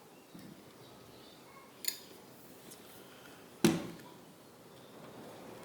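A jigsaw blade being fitted into the blade clamp of a Ryobi R18JS7-0 cordless jigsaw: a light metallic click, then a sharp, louder click about three and a half seconds in, with faint handling noise between.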